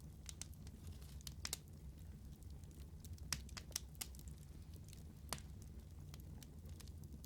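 Wood fire burning with a steady low rumble and scattered sharp pops and crackles, the loudest in a cluster a little past the middle and one more about five seconds in.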